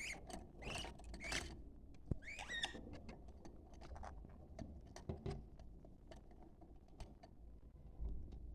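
Budgerigars chattering softly, with a few short warbled chirps (about a second in and again about two and a half seconds in) over many small scattered clicks.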